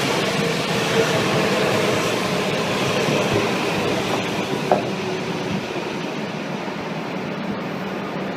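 Shinkansen train moving slowly alongside the platform, a steady rush of rolling and running noise with faint whining tones, easing off in the last few seconds. A single short click comes about halfway through.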